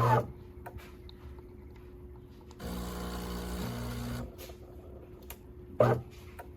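De'Longhi Magnifica Start fully automatic espresso machine working through a cycle. Its motor hum winds down with a falling whine at the start, and a pitched pump hum runs for about a second and a half in the middle, stepping up in pitch partway through. A short loud burst comes near the end.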